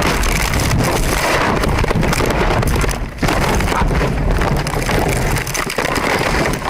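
Loud rushing noise of a car on the move, heard through a dashcam microphone: wind and road noise, with a short break about three seconds in.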